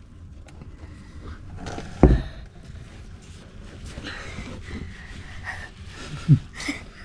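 A single sharp thump about two seconds in, then faint handling noise and a short breathy grunt-like sound near the end.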